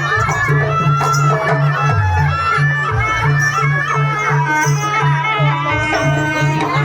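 Traditional folk dance music played loud: a reedy wind melody wavers over a steady, fast, pulsing low beat.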